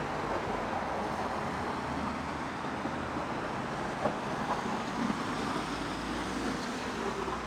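Steady hum of road traffic, with a few faint brief sounds standing out over it.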